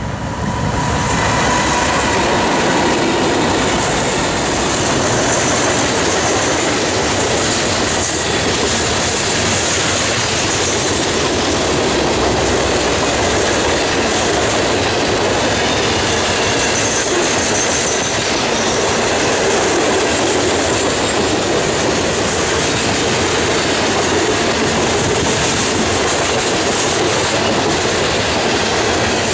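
Norfolk Southern coal train passing close: the diesel locomotives go by as the sound swells in the first second, then a long line of steel coal hopper cars rolls past steadily on the rails.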